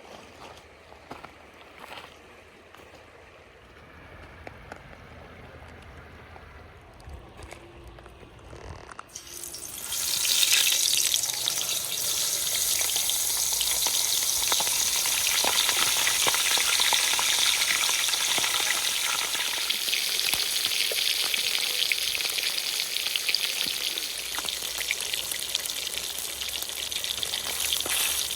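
Pompano fish frying in hot oil, a loud sizzle that starts suddenly about a third of the way in as the fish goes into the pan, then keeps up steadily and eases slightly toward the end. Before it, only faint clicks and knocks of handling.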